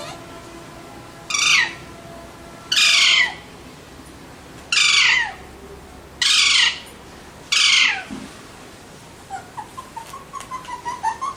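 Alexandrine parakeet giving five loud, harsh squawks about a second and a half apart, each sliding down in pitch, followed near the end by softer, quick chattering notes.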